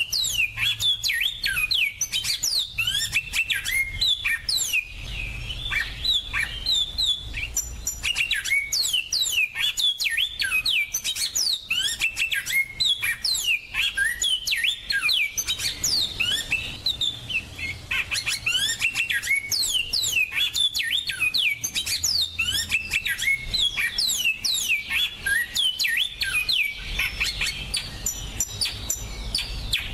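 Finch song: a dense, continuous run of quick chirps, trills and short downward-sweeping whistles.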